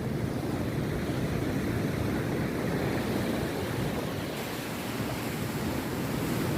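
Rough sea surf breaking and washing on a beach, a continuous rushing wash that swells and eases slightly, with wind buffeting the microphone.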